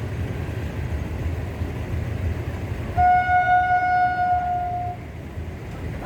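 Train horn sounding one steady note for about two seconds, starting about halfway in, over a steady low rumble of the passing train.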